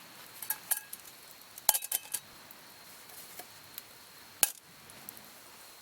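Camp cookware and utensils being handled: a few sharp, light clinks and clicks, clustered about two seconds in, with one more near the end.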